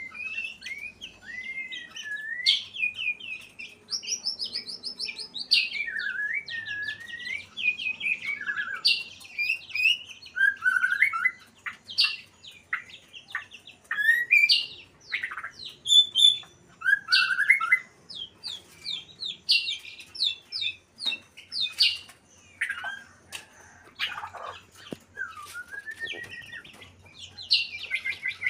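White-rumped shama singing a long, varied song of clear whistles, sliding notes and rapid trills, phrase after phrase with short pauses. It is presented as the song of a bird in breeding condition.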